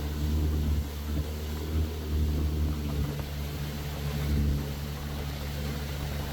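Boat engine running steadily at an even speed, a low hum with no change in pitch.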